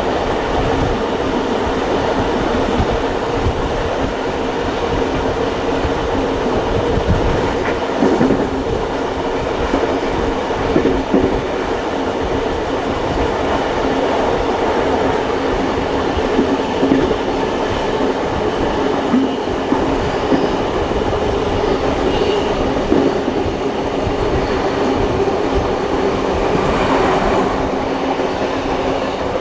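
Passenger carriage running on the rails behind steam locomotives, heard from aboard the train: a steady rumble and drone of wheels on track, with scattered clicks and knocks over rail joints.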